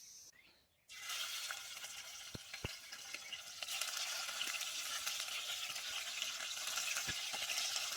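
Traíra frying in hot oil: a steady, dense sizzle that starts about a second in and grows a little louder partway through.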